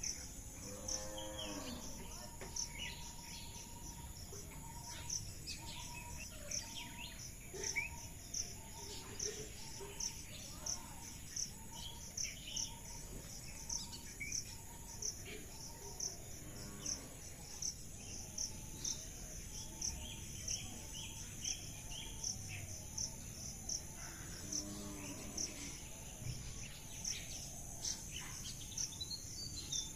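Insects chirping in a steady high-pitched pulse, about two chirps a second, with assorted birds calling over it. One bird repeats a short note over and over early on.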